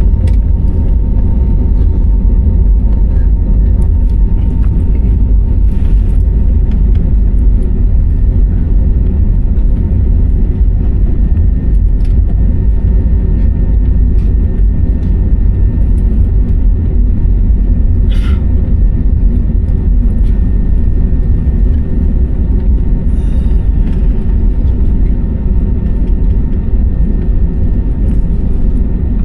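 Airliner cabin noise: the loud, steady low rumble of jet engines and airflow heard inside the passenger cabin, with faint steady tones above it.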